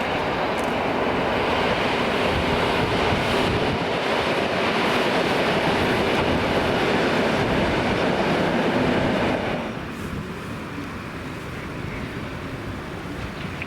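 A train passing close by, a loud rolling rumble and rush of wheels on the rails that falls away sharply about nine and a half seconds in, leaving a quieter steady noise.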